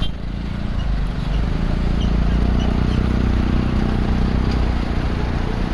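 Sand truck's diesel engine running with a steady low drone.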